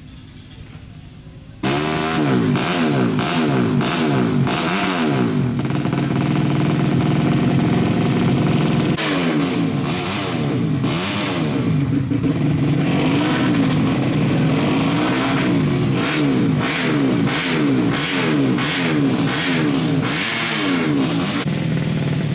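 Dirt-track racing motorcycle engine being revved again and again, the pitch climbing and dropping with each blip of the throttle. It starts abruptly about a second and a half in.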